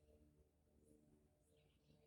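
Near silence: a faint low background hum with a couple of faint, brief high chirps.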